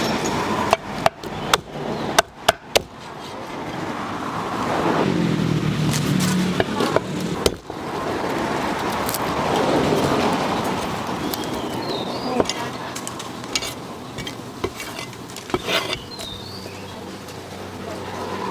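Street traffic: vehicles passing one after another, each swelling and fading over a few seconds, with a run of sharp knocks in the first three seconds.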